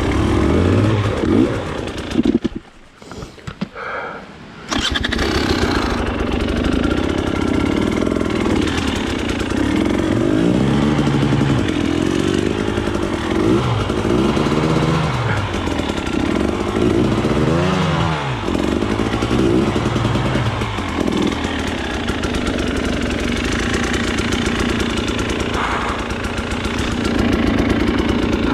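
Off-road enduro motorcycle engine being revved up and down over and over, the pitch rising and falling with each blip of the throttle. About two and a half seconds in, the engine sound drops away for about two seconds, then comes back suddenly.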